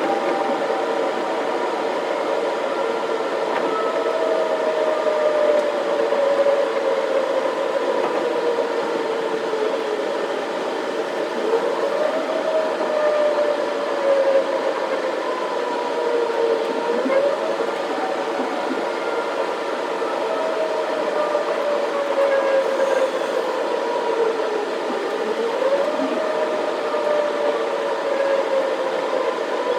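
Electric commuter train running, with a steady hum and a whine that slowly falls in pitch and then jumps back up, repeating about every five seconds.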